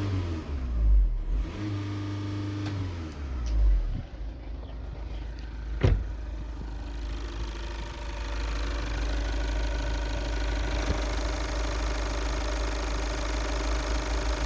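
Skoda Superb 2.0 TDI four-cylinder turbodiesel engine: two short surges in the first four seconds, a sharp click about six seconds in, then steady running for the rest.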